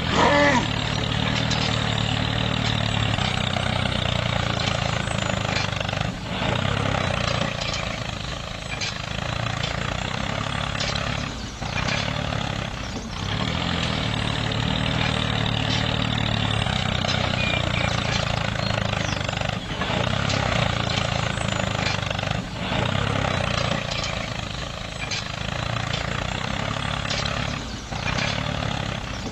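Motor of a handmade mini tractor running steadily, with a few short dips in level.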